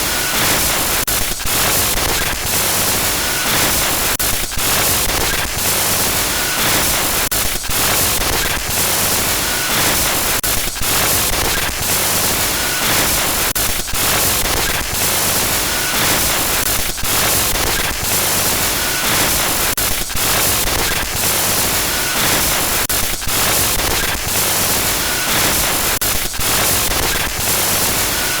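Loud digital glitch noise: a dense static hiss that crackles and drops out in rapid stutters, with a pattern that repeats about every three seconds.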